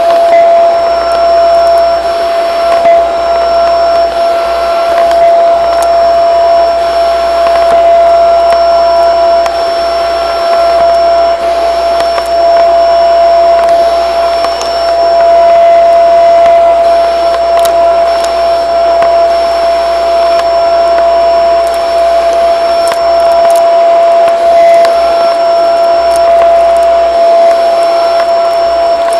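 Shark vacuum cleaner running steadily, its motor giving a loud, even whine.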